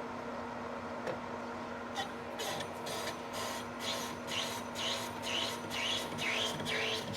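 Manual lathe running with a steady hum while a carbide insert cuts a plasma-cut steel plate. About two seconds in, a rhythmic scraping of the cut starts and repeats about two to three times a second.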